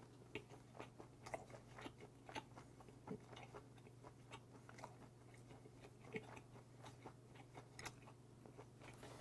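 Faint chewing of a mouthful of gwamegi, semi-dried Pacific saury: soft, irregular wet mouth clicks and smacks, the fish tender rather than firm, over a low steady hum.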